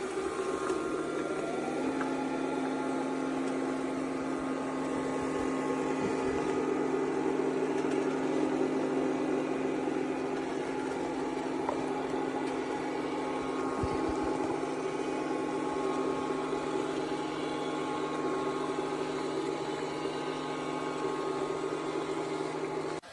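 ECOVACS DEEBOT T80 Omni robot vacuum system's motor running steadily with a whine, its pitch rising briefly about a second in. It stops near the end.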